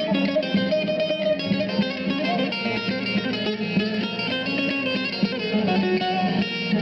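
Instrumental opening of an Aegean (Ege) folk dance tune: a bağlama (saz) picking a quick melody over electronic keyboard (org) accompaniment, with no singing.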